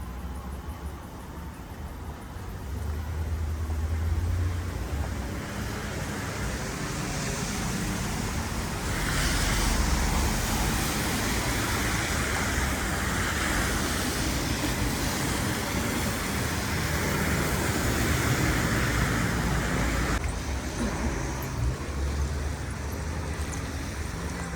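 City street traffic: vehicles passing with a steady low rumble. About nine seconds in, a louder hiss joins it, lasts roughly ten seconds and cuts off suddenly.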